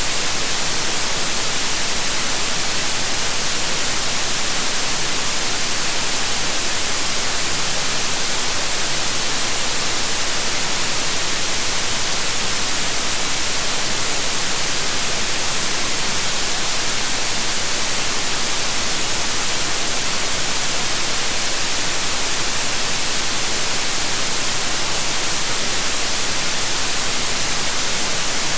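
Electronically generated white noise: a steady, even hiss, brightest in the high frequencies, with no change in level.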